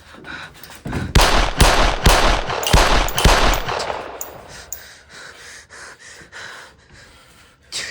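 A rapid burst of gunshots, about seven sharp cracks over two and a half seconds, with a noisy tail fading after them.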